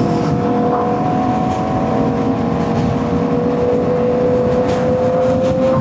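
Aprilia RSV4 1100 Factory's V4 engine running steadily under way, its note rising slowly in pitch as it gently gains revs, over low road and wind rumble.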